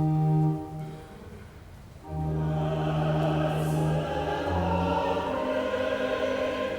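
A held organ chord is released less than a second in. After a short pause a choir begins singing, accompanied by steady sustained organ notes.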